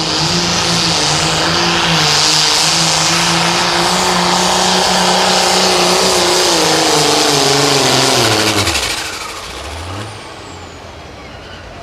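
Pulling tractor's diesel engine at full throttle under load as it pulls the sled. Its pitch holds steady with small dips, then drops away sharply about nine seconds in as the engine is shut down at the end of the pull. A brief rev follows about a second later.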